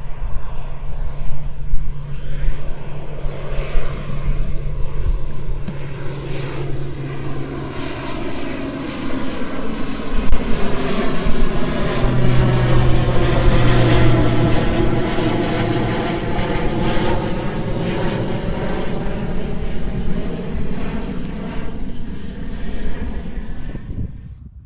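Airliner's engines passing low and close, swelling to a peak about halfway through and fading away, with a steady low hum under the rushing engine noise.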